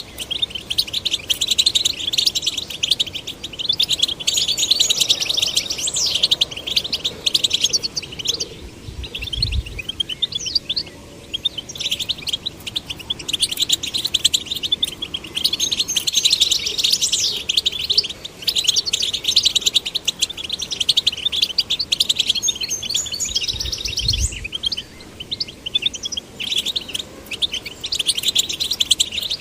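European goldfinches singing: a fast, continuous twittering song full of quick chirps and trills, with brief lulls. Two short, dull low thumps sound, one about a third of the way in and one late on.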